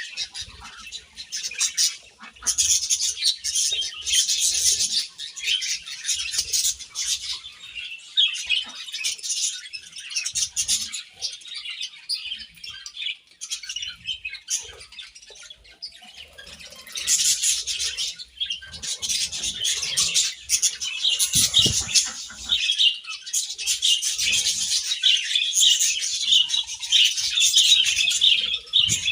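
A group of budgerigars chattering and chirping together, with a few wing flutters. The chatter thins out around the middle and picks up again for the second half.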